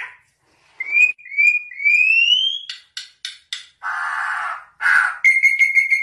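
Yellow-and-black songbird singing: three rising whistled notes, a quick run of sharp chirps and two harsh, raspy calls, then a long steady pulsing whistle that begins near the end.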